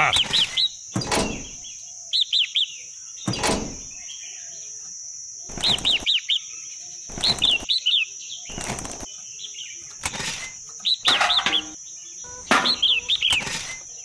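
Small birds chirping in quick bursts of several falling notes, again and again, over a steady high-pitched tone, with a dozen or so sharp clicks and knocks scattered between.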